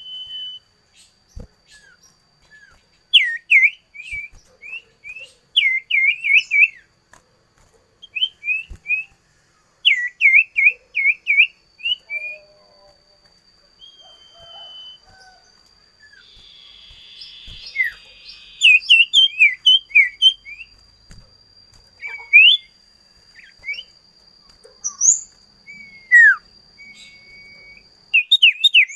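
Common iora (cipoh/sirtu) calling: quick, sharp chirps in rapid runs of three to five, repeated with short pauses, over a faint steady high-pitched whine.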